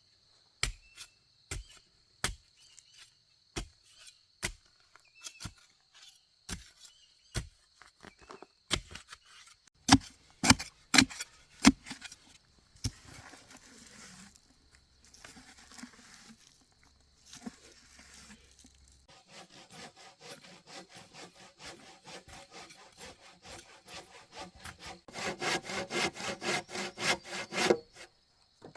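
Hand woodworking: a string of irregular sharp knocks on wood, then a hand saw cutting timber in quick, even strokes that grow louder near the end.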